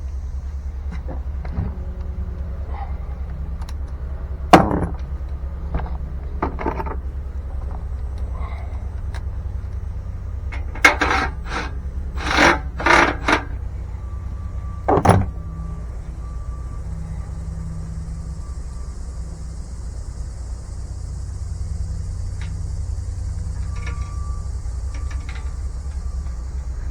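Scattered clanks and knocks of tools and metal parts being handled, the loudest about four and a half seconds in and a quick cluster a few seconds later, over a steady low machine hum.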